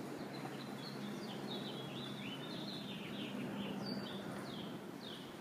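Small birds chirping in a string of short, falling notes, over a steady low hum and general background noise.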